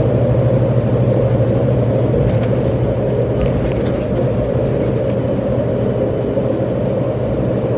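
Steady drone of a 2000 Freightliner FLD 112 semi truck's diesel engine with tyre and road noise, heard from inside the cab while cruising on the interstate.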